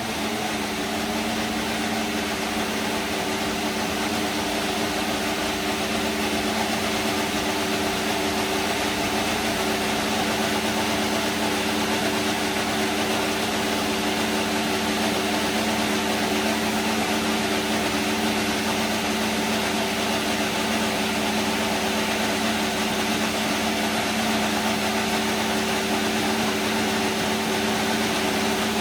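Haas VF-24 Formula 1 car's Ferrari 1.6-litre turbocharged V6 idling steadily, holding one pitch throughout.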